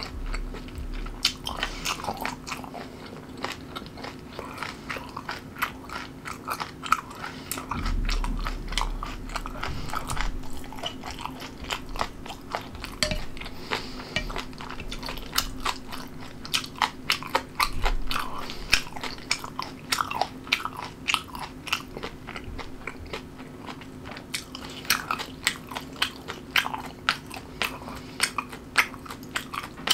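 A person chewing crunchy food close to the microphone, with many sharp crunches and wet chewing sounds in quick succession.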